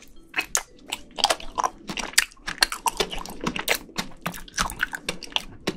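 Close-miked chewing of a spoonful of frozen rolled ice cream with pudding, full of quick, irregular crackling clicks.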